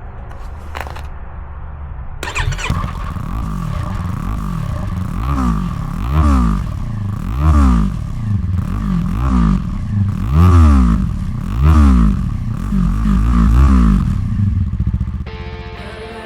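Yamaha R3 321 cc parallel-twin engine starting about two seconds in through an Akrapovic carbon slip-on exhaust. It idles, then is blipped in a run of about eight short revs before settling. Music comes in near the end.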